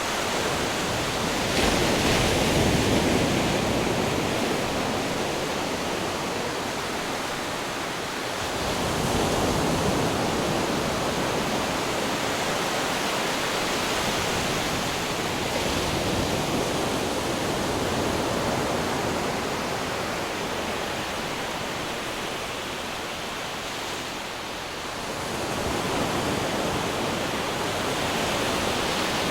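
Ocean waves crashing on rocks: a continuous rush of surf that swells into a louder surge every several seconds, the strongest about two seconds in.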